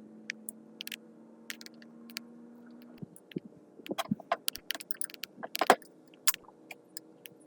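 Small metal parts and tools clinking and tapping in a scattered, irregular run of clicks, over a steady low hum that stops about three seconds in.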